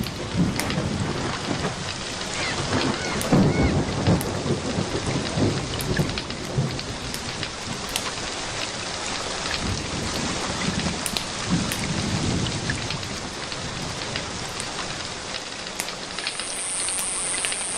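Steady rain with low rolling rumbles of thunder, scattered with small sharp crackles from a wood fire. A brief high hiss rises near the end.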